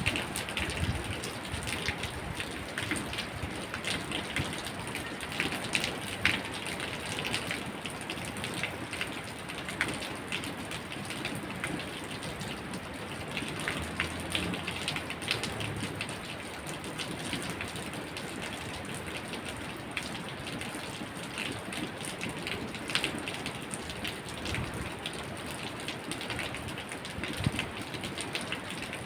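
Steady rain falling, with dense, irregular drop impacts pattering on a hard surface.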